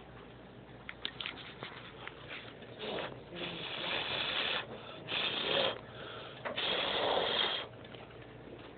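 A person's noisy breath: three long, breathy bursts, each a second or so, with a few small clicks before them.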